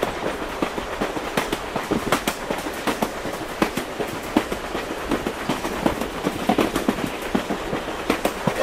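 Steam train sound effect: a steady hiss with many irregular clicks and knocks, like wheels clattering over rail joints.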